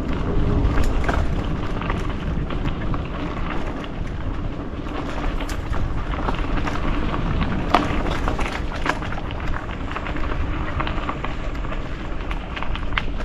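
Mountain bike riding down a dirt trail: steady wind rumble on the microphone and tyre noise, with scattered clicks and rattles from the bike.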